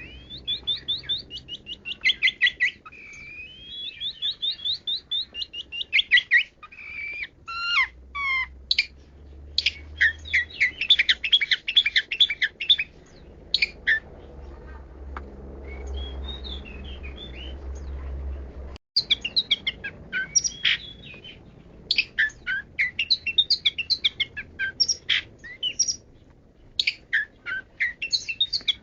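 Long-tailed shrike (pentet) singing a varied song of rapid chirp series, trills and down-slurred whistles, with a momentary break about two-thirds of the way through.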